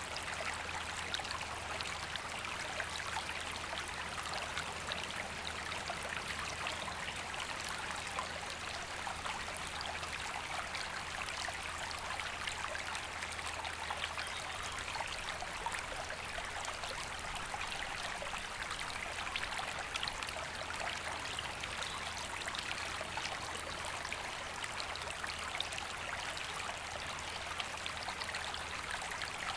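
River water flowing: a steady, even rushing and babbling.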